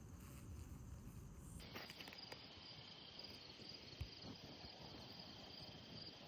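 Near silence: faint background tone, with a faint steady high-pitched whine that comes in under two seconds in, and a few faint ticks.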